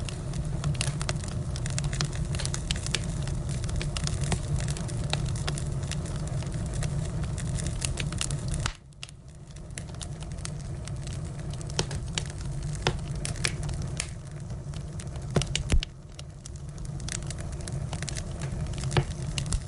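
Burning firewood crackling and popping, with a steady low rush of the fire underneath. The level drops suddenly about nine seconds in and again near sixteen seconds, then builds back up.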